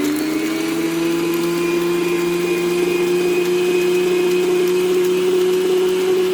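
Electric kitchen appliance motor running steadily at high speed, beating cake batter. The motor has only just come up to speed: its pitch settles upward in the first moments.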